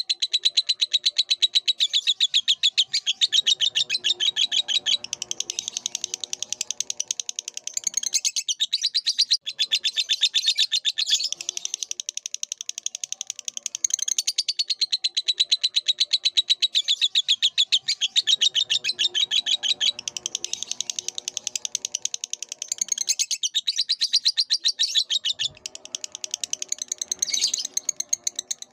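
Lovebird singing a rapid, shrill chattering trill of fast repeated chirps. It runs in long bursts broken by a few short pauses.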